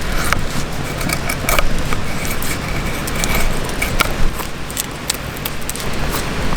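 Knife shaving a wooden stick to make chopsticks: irregular short scraping strokes over a steady low rumble.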